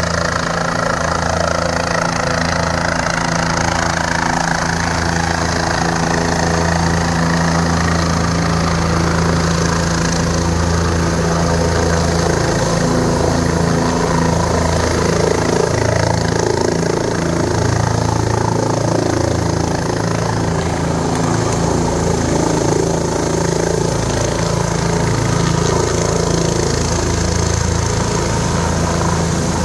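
Helicopter engine and rotor running steadily with a constant low hum.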